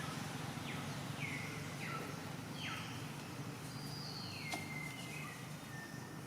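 A bird calling repeatedly: about five high whistles, each dropping steeply in pitch and then holding a level note, over a steady outdoor background hum.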